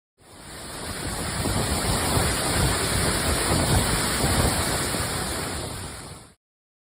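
Waterfall: a steady rush of falling water that fades in and then cuts off abruptly near the end.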